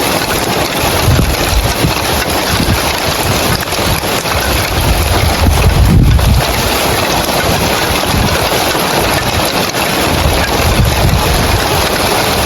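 Heavy rain pattering steadily on roof tiles, a dense even hiss, with low rumbling swells about a second in, mid-way and near the end.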